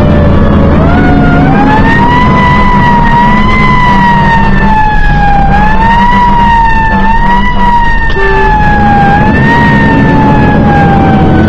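Fire engine siren wailing, its pitch climbing in the first couple of seconds, then sweeping slowly up and down and falling away near the end, over the steady running of the truck's engine.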